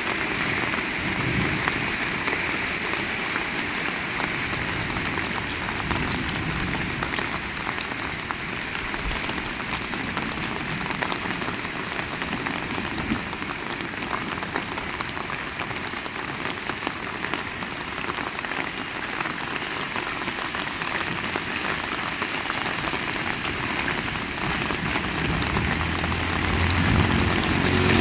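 Heavy rain falling steadily, with the patter of many individual drops. Near the end, a vehicle engine comes in low and grows louder.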